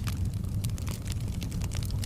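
Bonfire burning with a steady low rumble of flames and frequent crackles and pops of wood, several a second.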